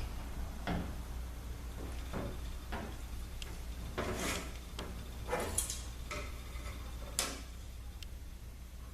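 Metal parts of an automatic transmission valve body being handled on a workbench: scattered light clicks and knocks with a couple of brief scrapes, the loudest knock about seven seconds in, over a steady low hum.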